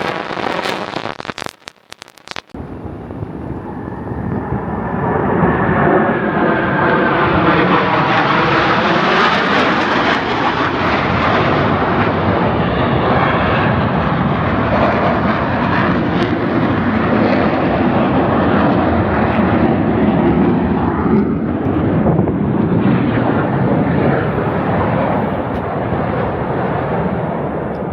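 Airplane engine noise building up a few seconds in and staying loud as a low-flying aircraft passes, with a pitch that falls as it goes by.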